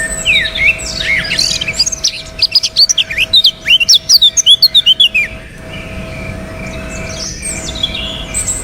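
Birds chirping, with a run of rapid loud chirps, about five a second, in the middle for around three seconds, and sparser calls before and after.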